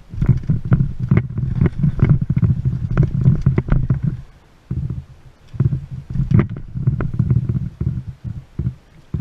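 Wind buffeting the microphone in irregular gusts, a loud low rumble that comes and goes, with a few sharp ticks.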